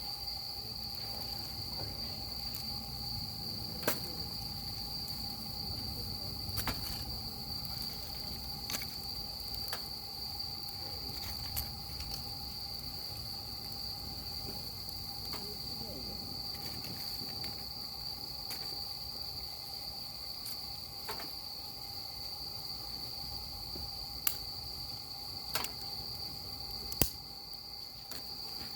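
Wood fire burning, giving off a scattered sharp crackle or pop every few seconds over a low rumble. Crickets trill steadily throughout.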